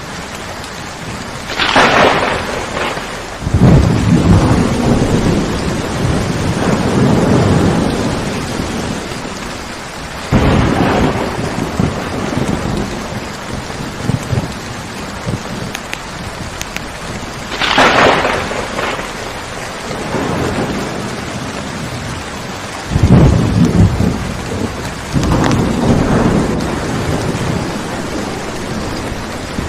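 Steady heavy rain with repeated thunder: a sharp crack about two seconds in, then a long deep rumble, another rumble about ten seconds in, a second crack just past halfway, and more rumbles near the end.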